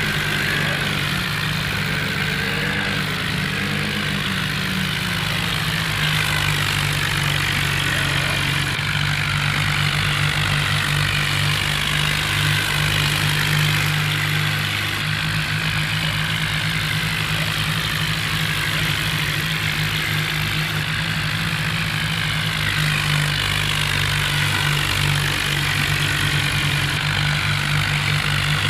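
Diesel tractor engine running steadily at a near-constant speed, a continuous low drone.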